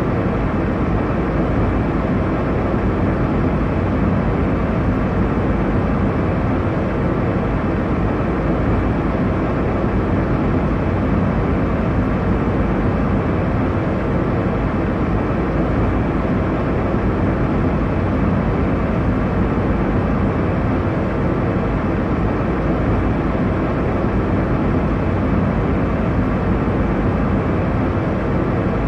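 Steady airliner cabin noise in flight: a constant deep rush of engine and airflow noise, heaviest in the low range, without change.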